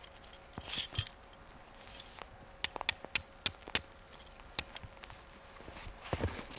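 A soft rustle, then a quick run of about six sharp, light clicks, a few a second, and one more click just after. Footsteps start again near the end.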